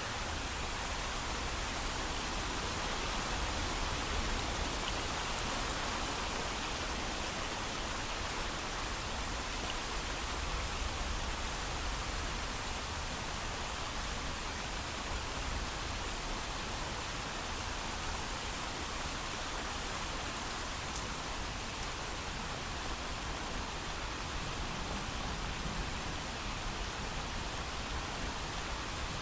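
Steady heavy rain falling, without thunder: an even, unbroken hiss.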